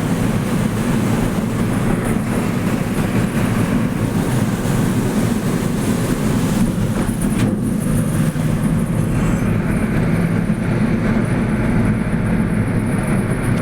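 Steady vehicle running noise: a continuous low engine and road rumble with no breaks.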